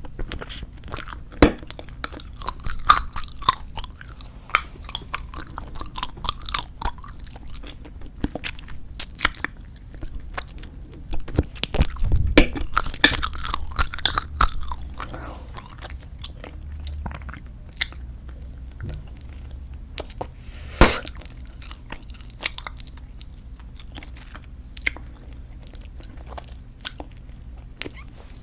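Close-miked wet bubblegum chewing: irregular sticky smacks and clicks of gum in the mouth, busiest about halfway through, with one sharp pop a little past two-thirds of the way in.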